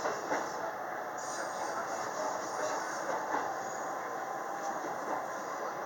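Interior running noise of a JR West 225-0 series electric train: steady track noise with a few wheel clicks over rail joints or points.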